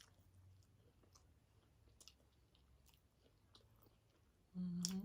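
Faint close-up chewing of food, with soft mouth clicks scattered through over a low steady hum. A brief hummed voice sound comes near the end.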